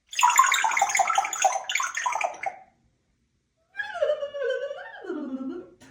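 Pet parrot making a rapid, bubbling, water-like gurgling chatter lasting about two and a half seconds. About a second later comes a second, lower call that wavers and slides down in pitch.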